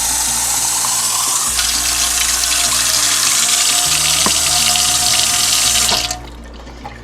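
Kitchen tap running hot water in a steady loud stream, shut off about six seconds in. Background music plays underneath.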